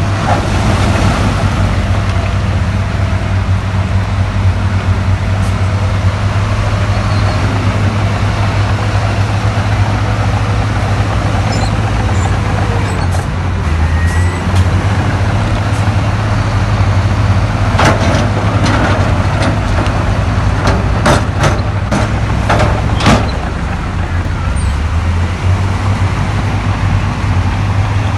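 Diesel engine of heavy earthmoving machinery running steadily with a deep drone. About two-thirds of the way through comes a quick run of sharp knocks.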